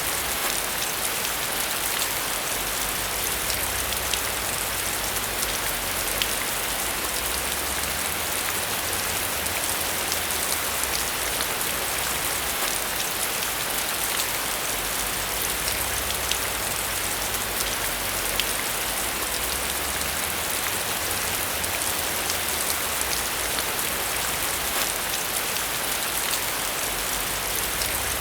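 Steady rain falling: a dense, even hiss with the patter of many individual drops.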